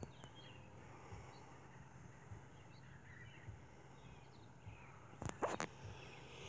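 Faint outdoor ambience with scattered bird chirps, and a quick cluster of three or four sharp clicks about five seconds in.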